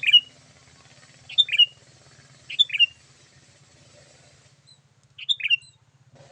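Sooty-headed bulbul (kutilang) calling: four short, bright phrases of two or three quick falling notes, spaced about a second or more apart, over a faint low hum.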